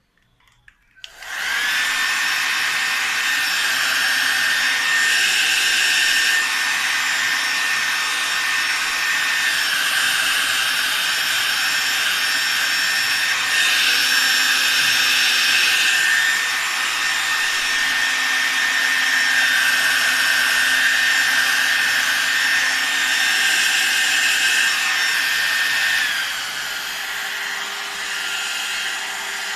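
A 1977 Clairol 1200 two-speed 1200-watt hair dryer switched on about a second in, its motor and fan running with a steady high whine. Near the end the whine stops and it drops to a quieter, lower running.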